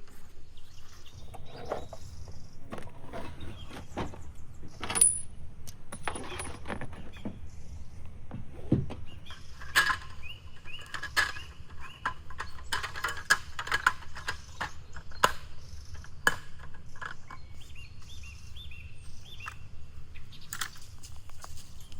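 Camp cookware and utensils being handled: a string of light, irregular metallic clinks and taps, busiest in the middle.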